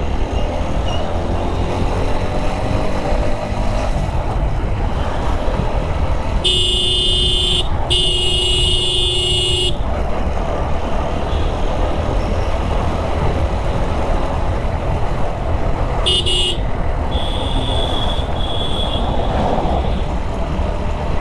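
Steady riding noise of a TVS Apache 4V single-cylinder motorcycle on a highway, its pitch rising in the first few seconds as it gathers speed. Vehicle horns sound over it: two long loud blasts a little after six seconds in, then a short honk and a fainter one past the middle.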